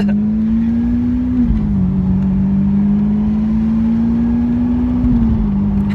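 Lamborghini Aventador SV Roadster's V12 engine pulling under acceleration, heard from inside the open-top car. Its pitch climbs slowly and drops sharply twice, about one and a half seconds in and again near the end, as the gearbox upshifts.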